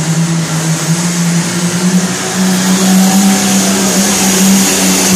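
Pro stock pulling tractor's turbocharged diesel engine running loud and steady at high revs, its pitch stepping up slightly about two seconds in and easing back near the end.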